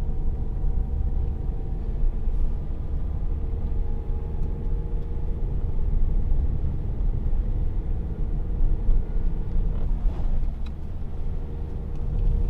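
A car driving, with steady low engine and road rumble.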